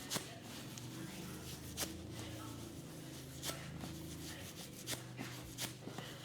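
About five sharp slaps at irregular intervals, over a steady low hum and a soft hiss.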